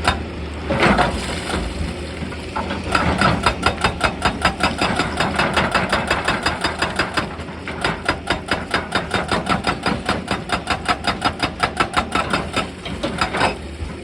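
Excavator-mounted hydraulic rock breaker hammering stone in rapid, even blows of about five a second over the running diesel engine. It runs in two bursts with a short pause between them, and there are a few heavier single knocks near the start and end.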